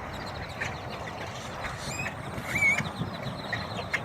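A large flock of birds calling: scattered short squeaks, chirps and sliding whistles, with a clear whistle about two and a half seconds in, sounding like a computer glitch. Steady traffic noise runs underneath.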